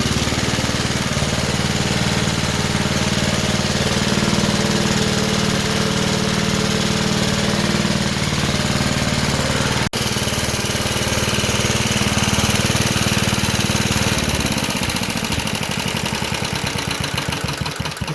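Johnson Iron Horse 'Chore Horse' generator's small gasoline engine running steadily. About three-quarters of the way through it begins to slow, its firing pulses spacing out as it winds down toward a stop.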